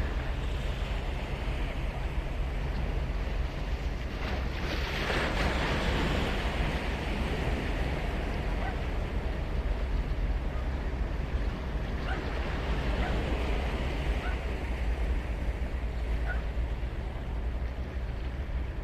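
Ocean surf on a sandy beach: waves breaking and washing in continuously, with one wave breaking louder about five seconds in.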